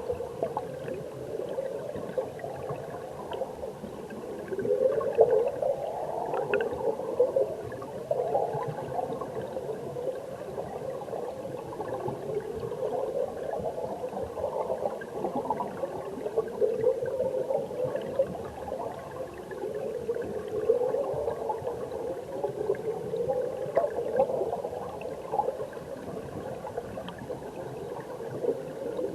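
Mountain stream heard through an underwater camera: muffled flowing and bubbling water with repeated short rising gurgles and a few faint clicks.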